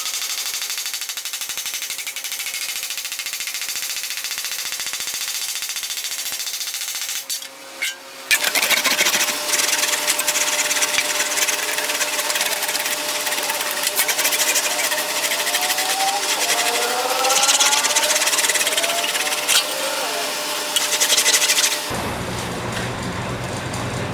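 Sheet-steel fender panel being worked on a buck: a fast, even run of tool strokes on the metal, louder after a short pause about eight seconds in, with a few brief squeaks later on.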